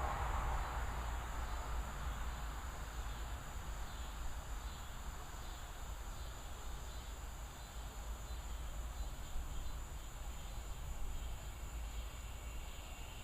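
Crickets and other evening insects chirring steadily, over a constant low rumble. A broad rushing sound fades away in the first second or two.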